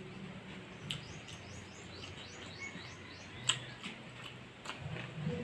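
A small bird chirping in a quick series of short, high, falling notes, about four a second, for a couple of seconds, with a few sharp clicks over a low background murmur; the loudest click comes about three and a half seconds in.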